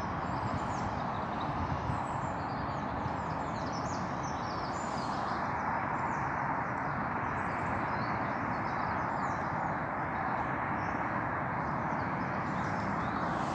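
Small birds singing and chirping over a steady rushing background noise.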